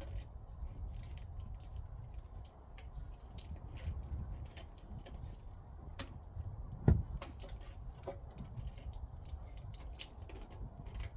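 Scattered light clicks and taps from handling roofing parts, with one sharp, louder knock about seven seconds in, over a low rumble.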